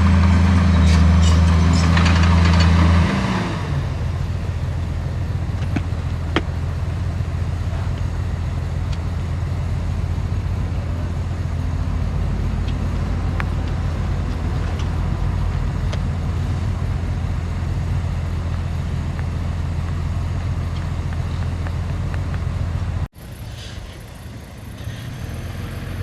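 Heavy diesel engine of earthmoving machinery running hard, then dropping to a lower, steady drone about three seconds in. Near the end the sound cuts off abruptly and a quieter engine sound takes over.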